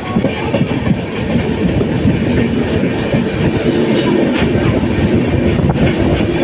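Indian Railways express train running, heard from inside the coach: a steady rumble of wheels on rails with an occasional clatter over rail joints.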